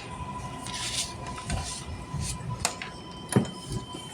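Interior of a MARTA Breda rapid-transit car stopped at a station: a steady high electrical tone with a low rumble underneath. The tone gives way to a higher tone about three seconds in, and a sharp knock follows just after.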